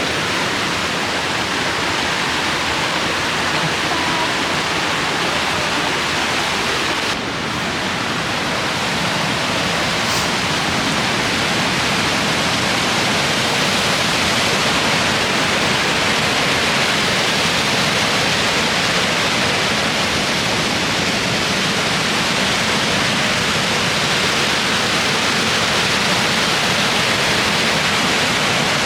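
Waterfall rushing: a loud, steady wash of falling water that holds constant, with a brief dip about seven seconds in.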